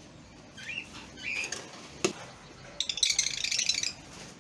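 Lovebirds calling: two short chirps, a sharp click about two seconds in, then about a second of rapid, rasping chatter or fluttering.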